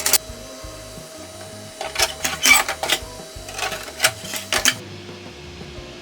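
Clusters of sharp clicks and taps, one at the start, a denser run about two seconds in and another about four seconds in, over a steady low hum.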